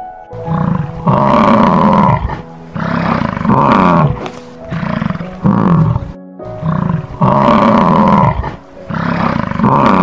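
A large animal calling loudly over and over, about ten calls, two of them long and the rest short, each bending down in pitch, with piano music underneath.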